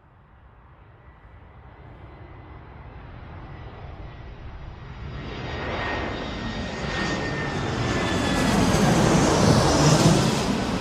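Red Arrows' BAE Hawk jets flying past, their engine noise growing steadily louder as they approach and peaking near the end. A thin whine drifts slightly lower in pitch as they near.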